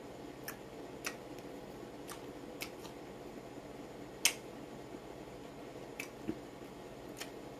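Quiet chewing of fresh guava: scattered sharp clicks and smacks from the mouth, with one louder crack about four seconds in.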